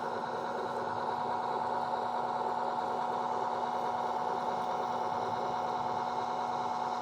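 Model train running on the layout track: a steady electric-motor hum with a fine, rapid rattle of wheels on rail.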